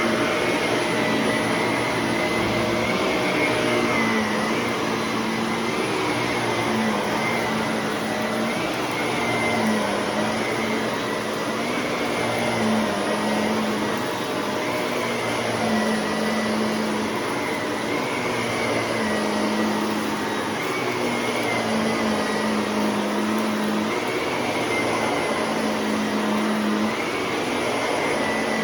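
Shark vacuum cleaner running continuously, its motor whine wavering slightly in pitch every second or two.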